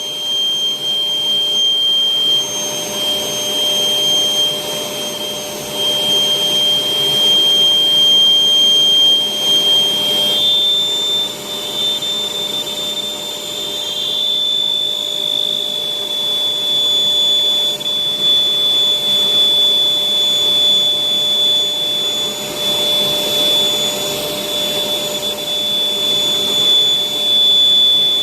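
Electric air blower running steadily, inflating a giant balloon. Its high whine steps up slightly in pitch about ten seconds in.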